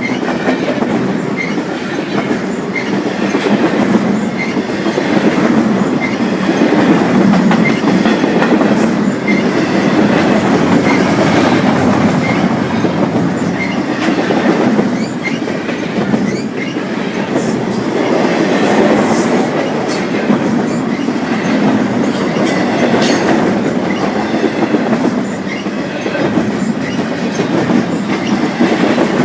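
Freight train cars rolling past, wheels clicking in a steady rhythm over the rail joints, with some brief high-pitched wheel squeal in the second half.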